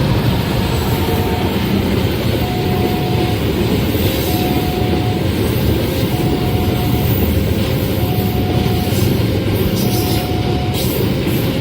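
A long train running fast over a level crossing: a loud, steady rumble of wheels on rail, with the crossing's warning signal sounding a tone of about a second roughly every two seconds.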